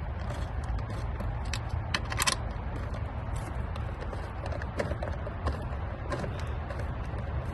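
Scattered light clicks and scrapes of hand work on a car engine, parts and bolts being handled, over a steady low rumble.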